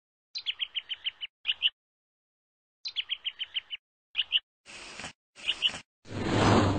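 Cartoon soundtrack: a bird chirping in two quick trills of about eight notes each, with a few more chirps after, then two short bursts of hiss. Near the end a car drives past, the loudest sound, swelling and fading.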